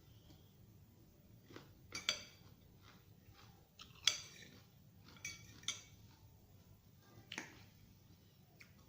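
Sounds of someone eating a vegetable salad: about five short, sharp clicks and crunches a second or two apart over a faint background hum.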